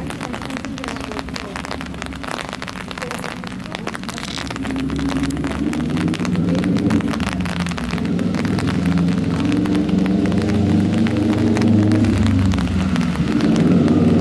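Rain falling on an umbrella canopy overhead: dense, quick drop hits. A low hum builds and gets louder from about four seconds in.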